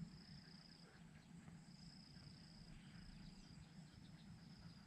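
Faint high insect trilling in the fields, coming in spells of about a second with short gaps, over a low steady rumble.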